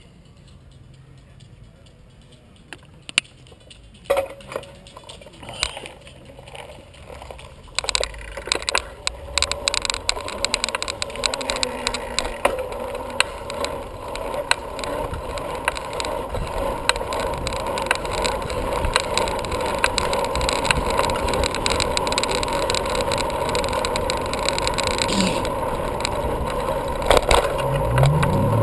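Bicycle in motion, heard from the rider: quiet for the first few seconds, then rattling and clicking from the bike that grow louder and busier as it picks up speed, with a steady hum building underneath.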